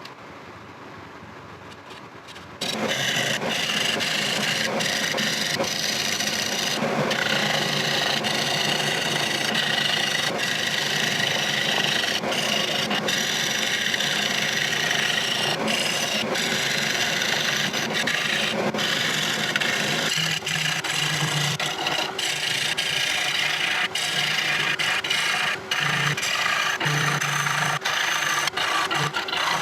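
Laguna Revo 18|36 lathe spinning a rosewood bowl. About two and a half seconds in, a tool starts cutting into the wood: a loud, steady scraping with brief breaks.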